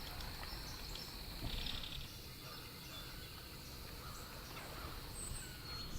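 Quiet outdoor ambience with a steady high-pitched thin whine, typical of insects, a brief louder sound about a second and a half in, and a faint high bird chirp near the end.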